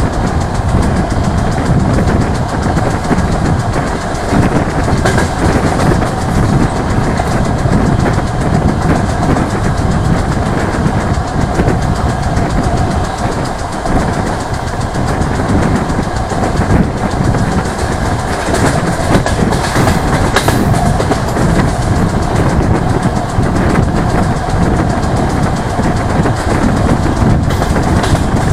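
A DR1A diesel multiple unit running along the line, heard from an open carriage window: a steady rumble of wheels on rails with a few sharper clacks along the way.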